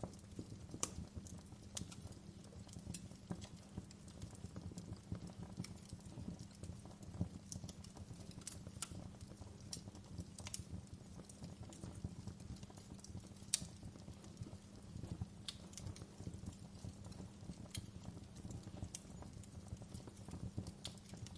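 Wood fire crackling in a fireplace: irregular sharp pops and snaps over a low, steady rumble of the flames, with one louder pop about halfway through.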